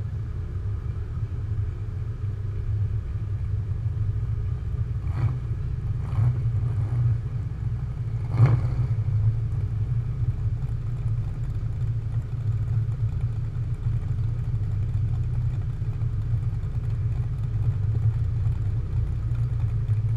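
McLaren 570GT's twin-turbo V8 running at low revs as the car creeps along at walking pace, a steady low drone, with a brief louder swell about eight seconds in.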